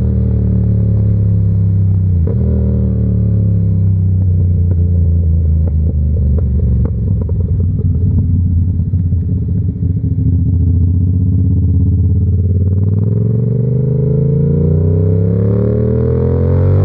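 Yamaha R7's parallel-twin engine, heard through an SC-Project exhaust: the revs fall as the bike slows, run low for several seconds with a few sharp clicks, then climb again as it accelerates in the last few seconds.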